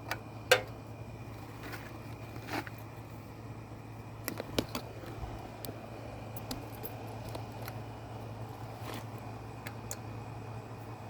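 Scattered metallic clicks and taps of a wrench working the two 8mm carburetor mounting bolts loose, the loudest about half a second in, over a steady low hum.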